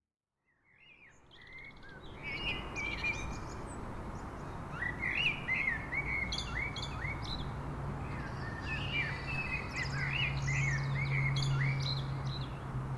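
Several birds chirping and singing in quick, repeated short calls, fading in after a moment of silence, over a low steady hum.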